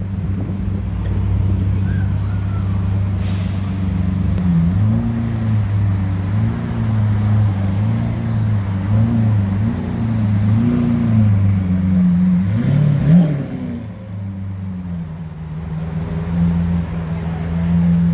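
Lamborghini Aventador's V12 idling, then revved in a run of quick throttle blips, each rising and falling in pitch. After one sharper rev, at about two-thirds of the way through, it settles to a steady, quieter running note.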